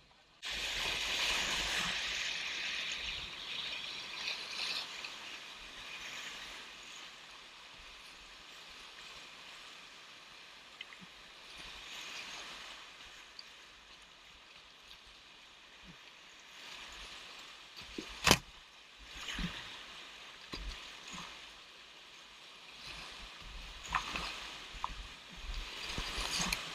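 Rushing whitewater with splashing from kayak paddling, loudest in the first few seconds, with one sharp knock about 18 seconds in.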